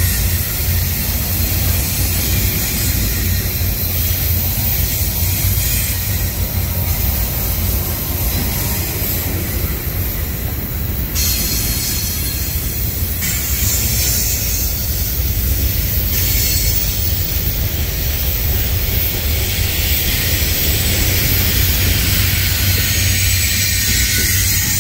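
Double-stack intermodal well cars of a CSX freight train rolling past: a steady, loud rumble of steel wheels on rail, with a constant high hiss over it.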